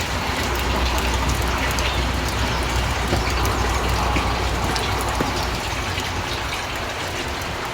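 Steady rain falling, with many scattered drops ticking on nearby surfaces.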